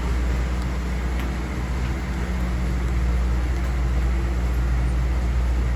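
Vehicle engine idling: a steady low rumble that holds at one level.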